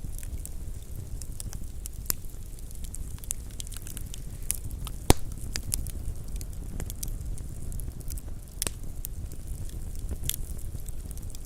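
Wood campfire burning and crackling, with scattered pops over a steady low rumble of the flames; one sharp, loud pop about five seconds in.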